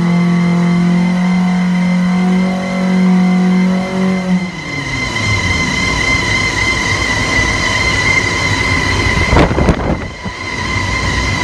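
A Suzuki Swift 1.2-litre petrol engine breathing through a Borla full aftermarket exhaust, held at high revs with a steady, strong exhaust note for about four seconds. The revs are then released and the sound falls away into a rougher, noisier rumble, with a brief sharp burst near the end.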